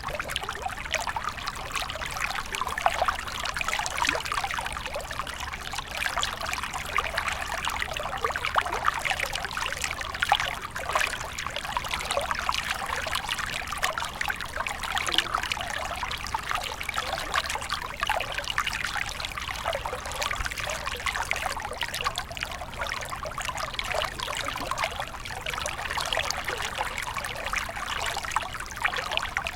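Shallow stream water flowing and trickling over stones, a steady babble of many small splashes.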